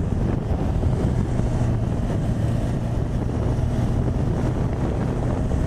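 Honda CB1000R motorcycle's inline-four engine running steadily while riding, a steady low hum under wind rushing over the microphone.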